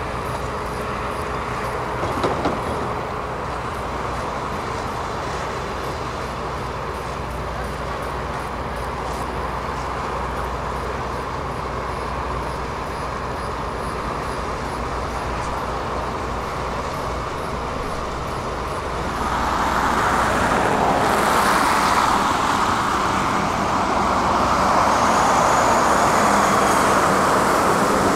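Heavy diesel construction machinery (an excavator and a truck) running steadily, with a short metallic knock about two seconds in. The engine noise grows louder about two-thirds of the way through, as the machinery works harder or comes nearer.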